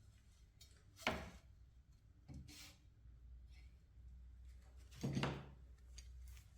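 Hard knocks and clunks of a handmade steel C-clamp being handled: a sharp knock about a second in, a softer one, then the loudest, longer clunk about five seconds in.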